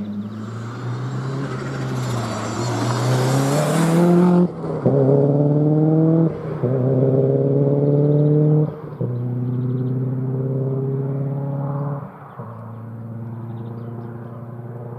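A four-wheel-drive rally car accelerating hard along a stage, its engine note climbing through the gears with about four upshifts. A loud rushing hiss runs with it during the first few seconds, and the car fades after the last shift.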